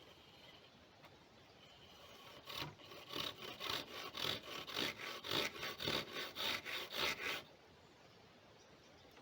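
Hand saw cutting through wood in quick, even strokes, about three a second, starting a couple of seconds in and stopping after about five seconds.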